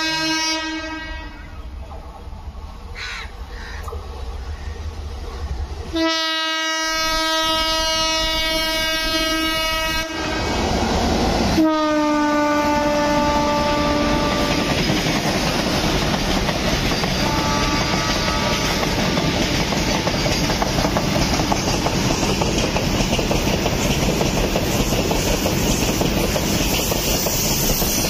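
Electric locomotive horn sounding several long blasts: one near the start, a long one about six seconds in, another just before the middle and a fainter one later. From about ten seconds in, a container freight train passes close at speed, its wagons making a loud, steady rumble and clatter on the rails.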